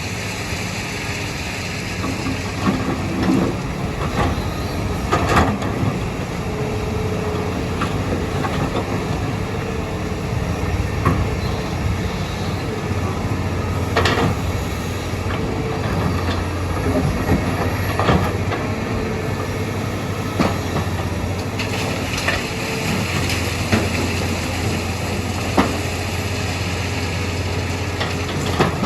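Heavy diesel engine of a working excavator running steadily, with scattered clanks and knocks every few seconds.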